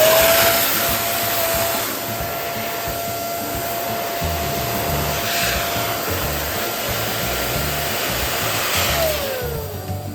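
Electric balloon pump blowing air to inflate a balloon: its motor whine rises as it starts, runs steadily with a rush of air, then falls away as it is switched off near the end.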